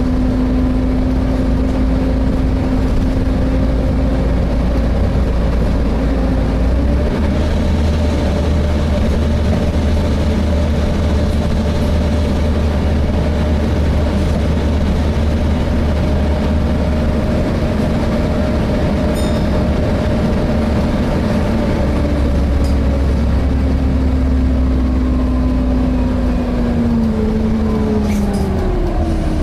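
Inside a Volvo B7TL double-decker bus on the move: the engine and its cooling fan make a steady, loud droning whine over a low rumble. The pitch steps up a few seconds in, then falls away near the end as the revs drop.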